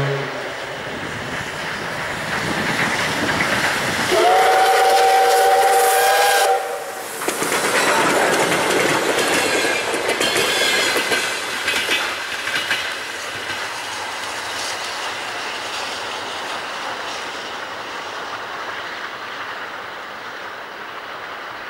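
P36 steam locomotive and its excursion train passing close by. About four seconds in, the locomotive's steam whistle gives one chord-like blast of about two and a half seconds, a friendly signal from the driver. The carriages then clatter over the rail joints and the rumble slowly fades.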